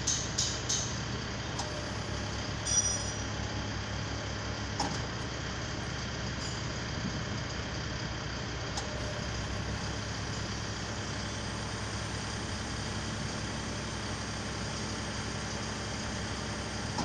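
Manlift truck's engine running steadily. A rapid series of high beeps dies away in the first second, and a single sharp metallic ring comes about three seconds in.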